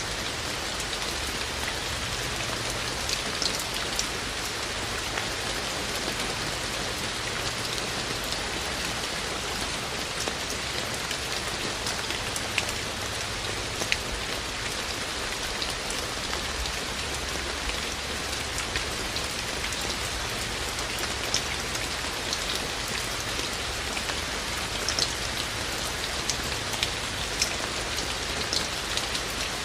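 Steady rain falling, a constant hiss with scattered individual drops ticking sharply on hard surfaces.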